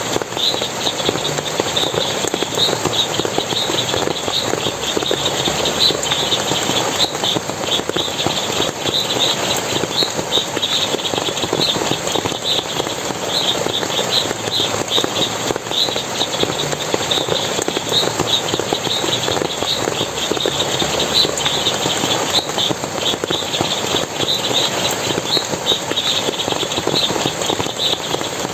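Forest stream water splashing and running steadily, with a constant high chirping of many short notes, several a second, over it.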